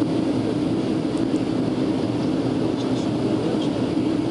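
Steady drone of a jet airliner cabin in flight: engine and airflow noise, even and unchanging, with a low hum at its core.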